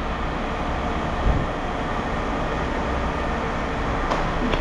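A vehicle engine running steadily, a low rumble with a hum, with a single thump about a second in and sharp clicks near the end.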